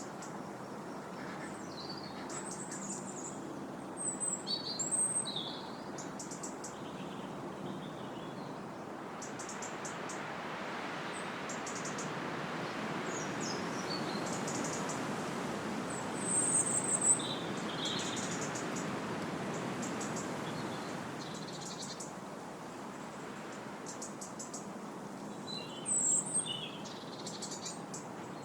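Wind blowing through trees, swelling into a stronger gust through the middle and easing off again. Small birds chirp and trill over it, loudest about four seconds in, around two-thirds of the way through and near the end.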